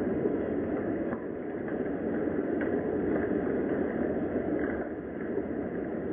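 Steady rain ambience, an even rushing hiss, with faint scattered ticks.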